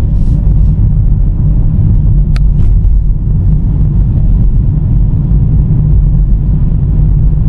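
Steady low road and engine rumble of a car driving, with one brief sharp click about two and a half seconds in.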